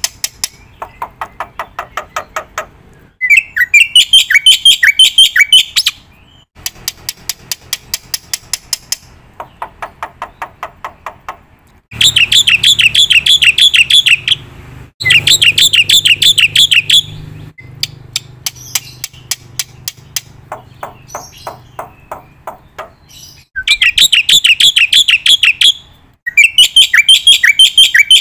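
Bird calls: a series of rapid, evenly pulsed trills, each lasting a few seconds. Some are high and wavering, some lower and chattering, with sharp breaks between phrases.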